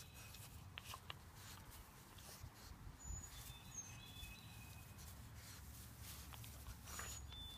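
Quiet outdoor ambience with faint bird chirps: a few short, high whistled notes about three seconds in and again near the end, over a low steady rumble.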